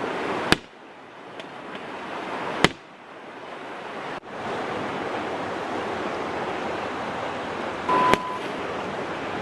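Steady rushing noise of fast-flowing floodwater, broken by sharp clicks at abrupt cuts about half a second, two and a half and eight seconds in. A short beep sounds near the eight-second mark.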